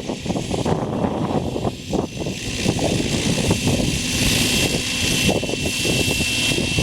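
T-REX 700 F3C radio-controlled helicopter in flight: rotor noise with a steady high whine, under gusty wind buffeting the microphone.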